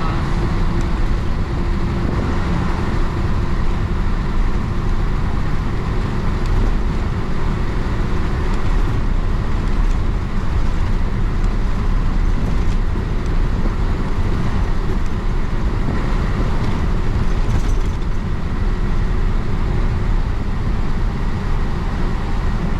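Isuzu BXD30 bonnet bus's DA640 diesel engine running steadily under way, a dense low growl with no gear change or pause.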